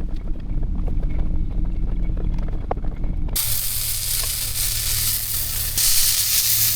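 Wind rumbling on the microphone with a few light knocks. About three and a half seconds in, it cuts to meat sizzling steadily in a hot frying pan.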